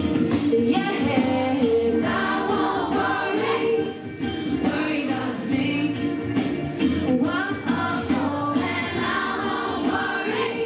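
A song: a group of voices singing over an instrumental backing with light, steady percussion.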